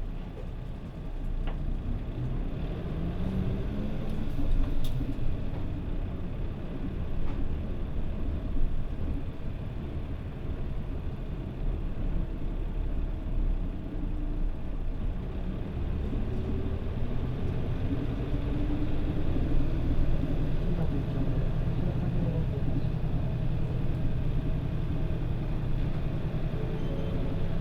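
Mitsubishi Fuso Aero Star (PJ-MP35JM) city bus under way, heard from inside the cabin. The diesel engine rises in pitch as the bus pulls away in the first few seconds, changes pitch again partway through, and runs steadier near the end.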